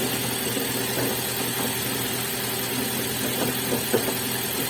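A Ford Mondeo engine idles with the gearbox removed, a knock coming from the dual-mass flywheel over its steady running. The owner takes the knock for a failing dual-mass flywheel, not the gearbox.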